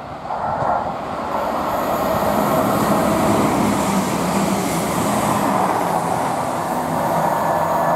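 Two coupled Chiltern Railways Class 168 diesel multiple units passing through the station: a steady rush of wheels on rail with a low, steady engine hum. The noise swells about half a second in as the train draws level, then holds.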